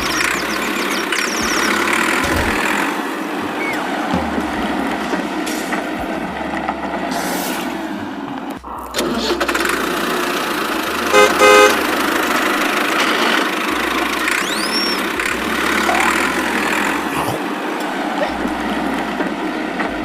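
Busy vehicle noise with a horn honking once, briefly and loudly, about eleven seconds in.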